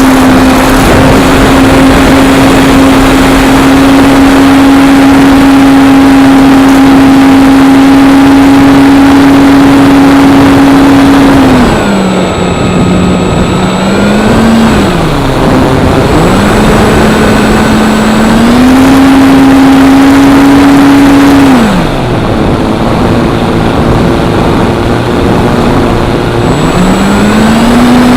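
Electric brushless motor and propeller of a ParkZone P-47 RC plane whining at a steady pitch, throttled back twice, about twelve and twenty-two seconds in, and opened up again each time. Heavy wind rushes over the microphone throughout.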